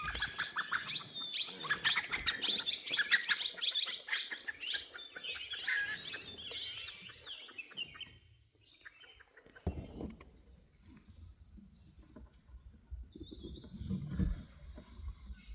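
Wild birds chirping and calling in a dense, busy chorus that thins out about halfway through. Fainter calls carry on over a low rumble in the second half.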